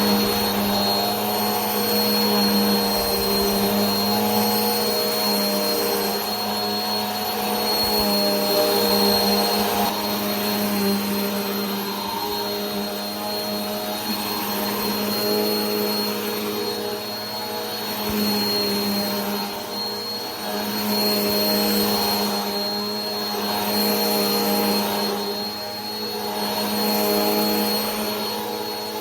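Vacuum cleaner running continuously: a steady motor hum and whine over a broad airflow hiss, with a thin high tone above it. The loudness swells and dips slightly every few seconds.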